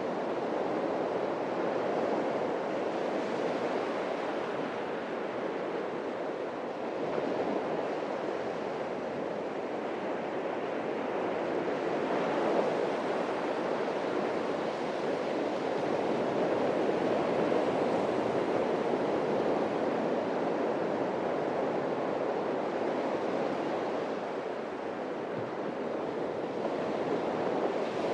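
Atlantic surf breaking on a beach: a continuous wash of waves that swells and eases slowly, with no single crash standing out.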